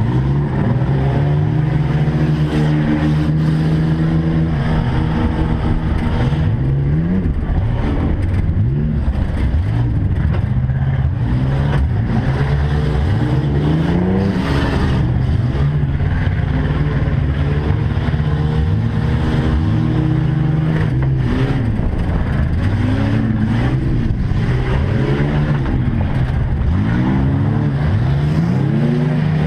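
Race truck engines running hard in a race, repeatedly revving up and easing off over a steady low engine drone.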